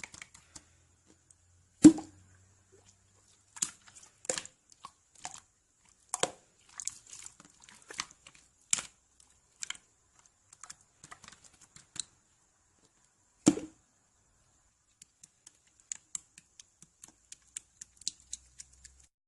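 Scattered, irregular small clicks and taps, with two louder knocks, one about two seconds in and one about two-thirds of the way through.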